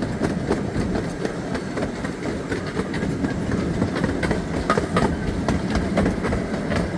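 Park excursion train rolling along its track: a steady running rumble with frequent clicks of the wheels over rail joints, heard from aboard the cars.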